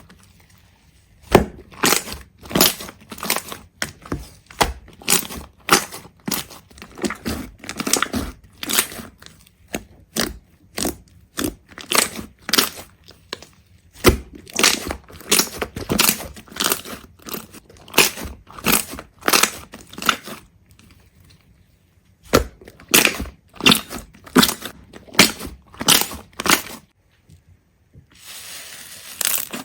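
A quick series of sharp crunching cracks, several a second, in runs broken by short pauses: something brittle being crushed or snapped over and over.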